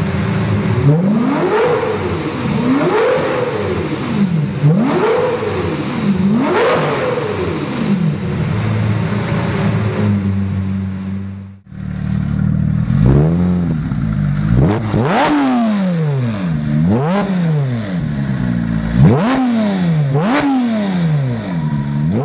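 Lamborghini Murcielago V12 through a Fabspeed Maxflo aftermarket exhaust, revved loudly in repeated throttle blips. Each blip rises and falls back to idle. A short break near the middle is followed by quicker blips with a few sharp pops among them.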